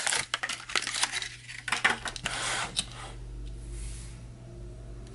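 Blister-packed Hot Wheels car being handled: the plastic bubble and card crackle and click for about three seconds, ending with a sharp click, then it goes quiet apart from a low hum.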